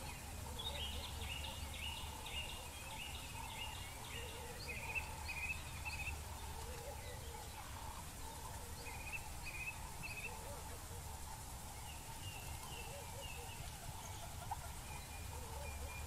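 Birds singing in dry bush: clusters of short, quick, repeated chirping notes that come and go, over a steady low rumble.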